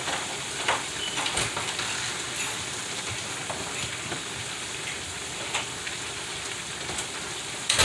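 Cube steaks frying in hot oil in a Presto fryer: a steady sizzle and crackle, with a few sharp clicks, the loudest near the end.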